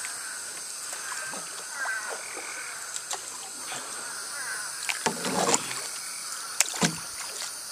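Canoe paddle dipping and splashing in floodwater, with a few sharper knocks and splashes. Frogs are calling steadily in the background.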